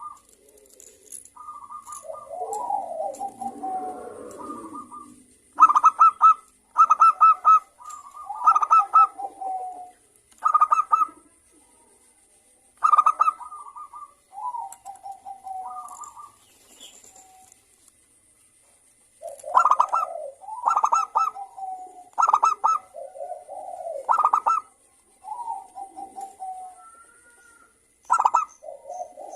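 Zebra doves (perkutut) cooing back and forth in repeated short, stuttering phrases with gaps between them, and a pause of about two seconds midway through.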